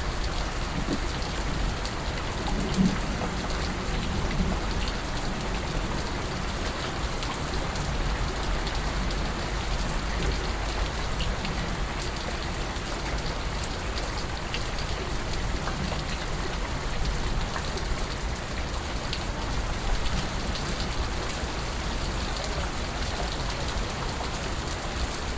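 Steady rain falling, with individual drops and drips ticking through the even hiss.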